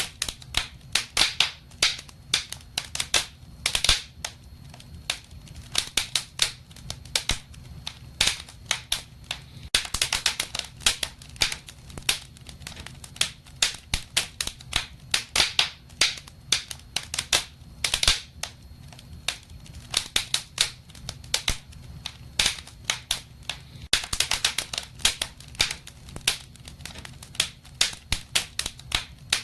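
Wood fire crackling in a fireplace: a dense, irregular run of sharp pops and snaps, bunching into louder flurries every few seconds, over a faint low hum.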